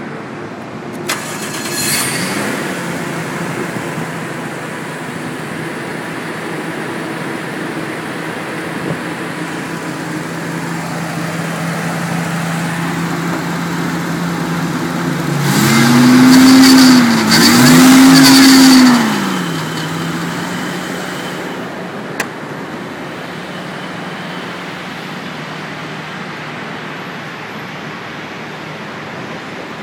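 Single-turbo Toyota 1JZ inline-six swapped into a BMW E36, idling steadily. About halfway through it is revved twice in quick succession, each rev rising and falling back to idle; a short blip of revs comes near the start and a sharp click sounds later.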